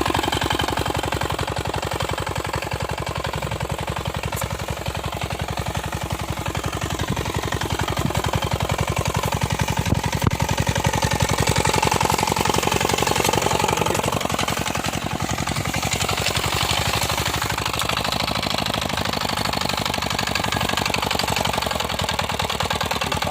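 Small homemade tractor's engine running steadily, with a rapid, even chugging of firing pulses and a slight rise and fall in pitch as it works.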